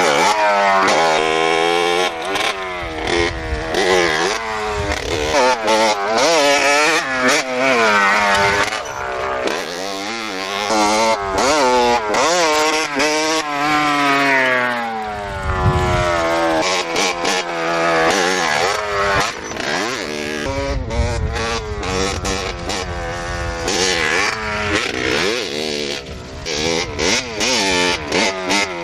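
Several motorcycle engines revving hard, overlapping, their pitch repeatedly rising and falling as they accelerate, shift and go past.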